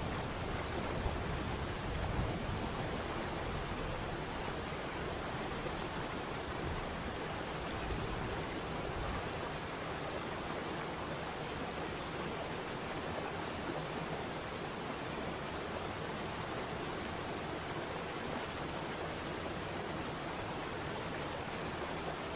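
Waterfall: a steady, even rush of falling water, with a deeper rumble under it that eases about nine seconds in.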